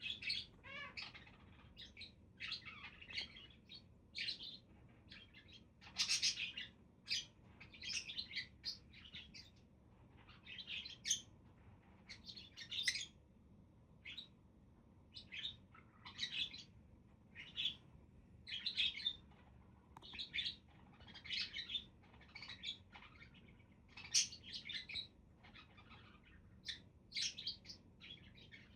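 Budgerigars chirping and chattering, with short scratchy warbles and tweets following each other every half second or so.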